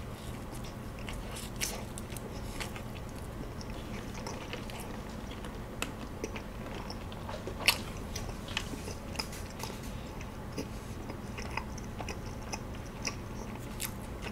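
Kaya toast being bitten and chewed close to the microphone: scattered soft crunches and mouth sounds over a faint steady hum, with one sharper crunch about eight seconds in.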